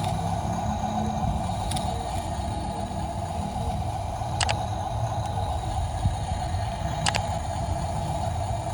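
Steady motor-like running noise with a low rumble underneath, broken by three sharp clicks about two and a half seconds apart.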